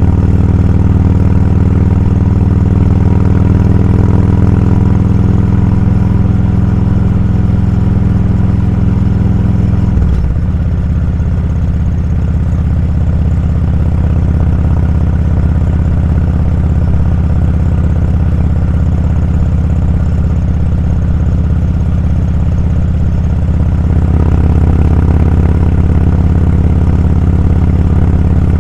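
Motorcycle engine running under way at a steady speed. Its note drops abruptly about ten seconds in and picks up again near the end.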